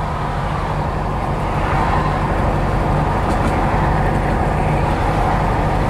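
Inside the cabin of a 1963 VW Beetle: its air-cooled flat-four engine running steadily at road speed, likely in fourth gear, with tyre and wind noise. The drone grows a little louder about two seconds in.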